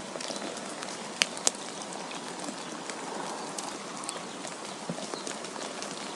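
Snowfall ambience: a steady hiss with scattered light ticks, like flakes or pellets striking surfaces. There are two sharper ticks a little over a second in.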